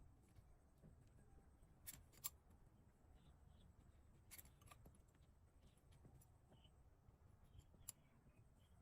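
Hoof-trimming tools working on a cow's hoof: a few sharp snips and clicks over a quiet background, the loudest a little over two seconds in.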